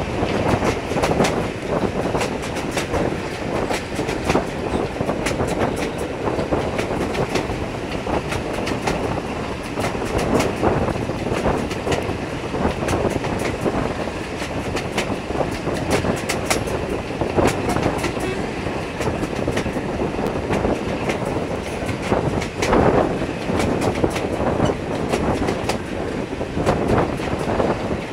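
Passenger coaches of a moving train, heard from an open window: a steady rushing rumble of wheels on rail, with the wheels clicking over rail joints again and again.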